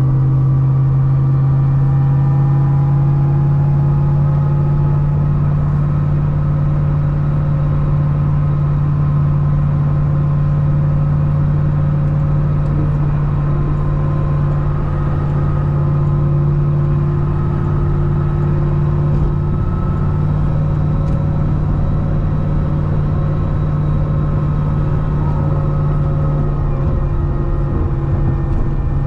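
Supercharged C6 Corvette ZR1 V8 with a Kong 2650 supercharger, running at a steady highway cruise. The engine note holds a low, even drone, drifting only slightly up and down in pitch.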